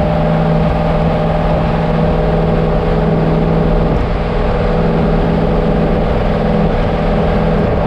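Turbocharged LS V8 engine of a street-legal stock car running at a steady, constant speed, one strong unchanging engine note throughout.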